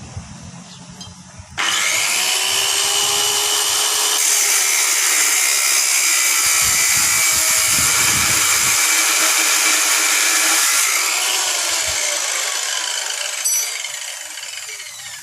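Electric angle grinder switched on about a second and a half in, running at full speed under load with a high hiss. It is then released and spins down with a falling whine over the last few seconds.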